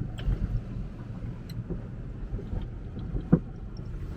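Car driving slowly, a steady low rumble of engine and tyres, with one short sharp sound about three seconds in.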